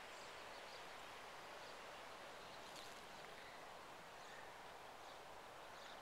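Faint, steady outdoor background hiss with a few faint, brief chirps of small birds.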